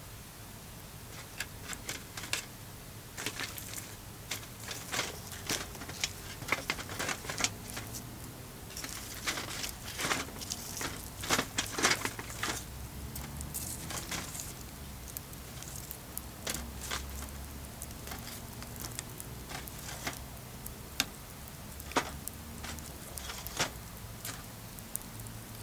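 Wood campfire crackling and popping, with irregular sharp snaps that come thickest about halfway through.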